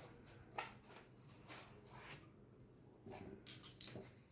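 Near quiet, with a few faint light clicks and rustles of the vacuum's accessories and packaging being handled: one about half a second in and a small cluster near the end.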